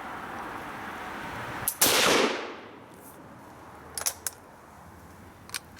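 A single rifle shot from a Schmidt-Rubin 1889/96 firing original 7.5x53.5mm GP90/03 ammunition, a little under two seconds in. A faint click comes just before it, the delayed 'click bang' of century-old cartridges, and the report rings out for nearly a second. A few light clicks follow.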